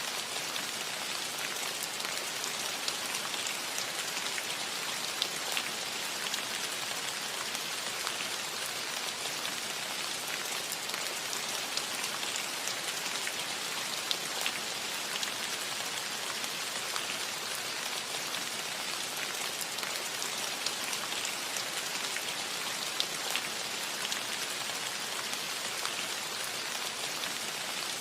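Steady rain on a cottage roof: an even hiss with many sharp, separate drop ticks scattered through it.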